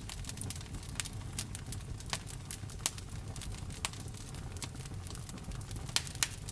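Wood fire burning: irregular sharp crackles and pops over a steady low rumble, with two louder pops near the end.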